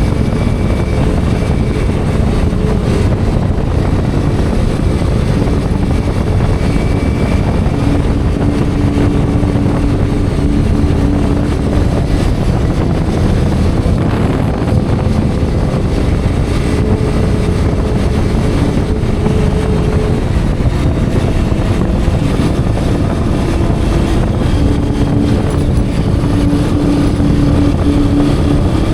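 Hero Xpulse 210's single-cylinder engine running as the motorcycle rides along, with wind rushing over the microphone. The engine note shifts in pitch every few seconds as the throttle and gears change.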